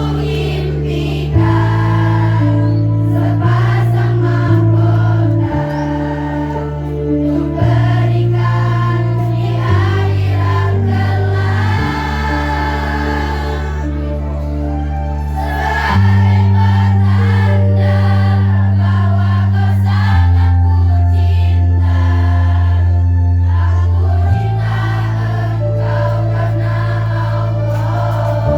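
A choir singing with accompaniment, over long held bass notes that change pitch every few seconds.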